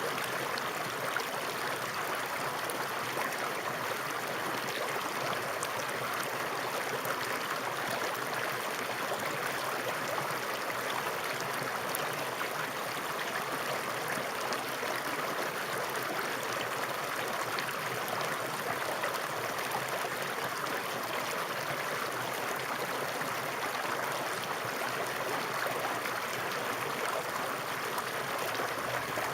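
Flowing stream water running steadily, an even rushing sound with faint splashes and gurgles.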